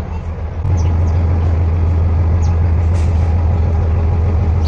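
Diesel engine of the train running with a steady low drone that steps up louder under a second in and then holds.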